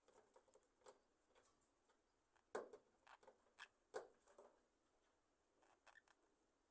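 Roosting budgerigar flock: very faint, scattered small clicks and rustles, with two louder sharp ticks about two and a half and four seconds in.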